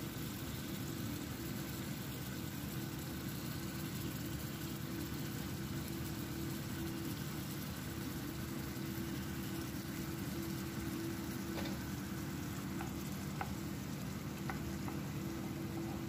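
Food sizzling steadily in a frying pan, with a steady low hum underneath and a few faint clicks near the end.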